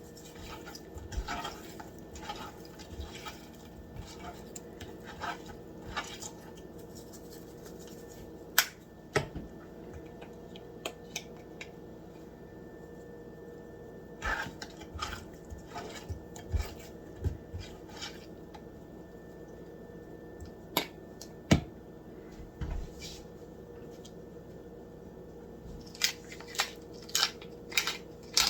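Scattered light taps and clicks of kitchen handling, spice shakers and containers being shaken, picked up and set down while seasoning food, over a steady low hum. The taps come in clusters, busiest near the end.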